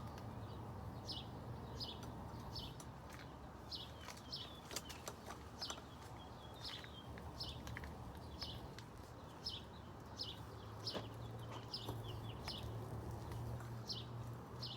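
A bird chirping over and over, short high chirps that fall in pitch, about two a second, with light scattered clicks and a low steady hum behind.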